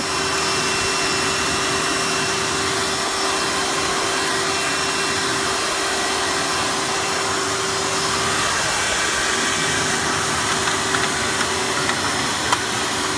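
Hoover Preferred (Elite) U5095-930 upright vacuum's 7.2 amp direct-air motor running steadily in hose and tool mode, an even rushing noise with a steady whine. There is a single click near the end.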